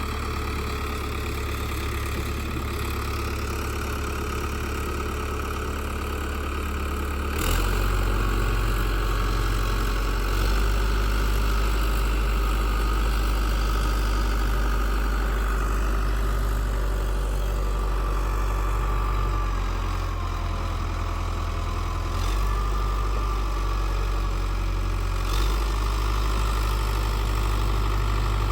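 Old tractor backhoe's diesel engine running steadily. It gets louder with a sharp knock about a quarter of the way through and changes note a couple more times near the end.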